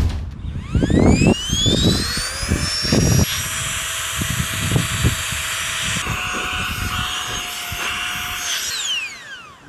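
Small electric motor spinning up with a rising whine, running steadily for about eight seconds, then winding down when switched off. Knocks and handling thumps come in the first few seconds.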